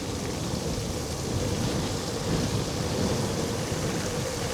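Steady rushing noise from riding an electric scooter on a wet road: wind buffeting the microphone with a low rumble and tyres hissing through the wet, under a faint steady whine.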